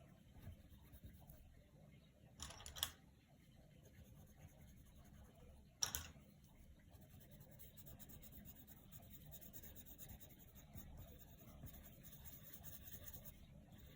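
Coloured pencil rubbing faintly on paper, with a short scratchy stroke about two and a half seconds in and a sharp click about six seconds in.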